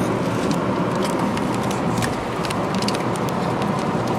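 Steady road and engine noise heard inside a moving car's cabin, with a few light clicks scattered through it.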